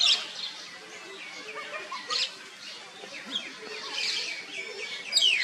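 Birds chirping and twittering, with one loud call sliding down in pitch near the end.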